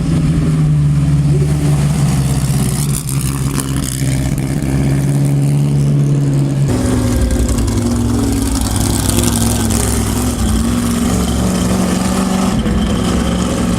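Vintage midget race car engines running loud and steady at low speed. The engine note changes abruptly about seven seconds in.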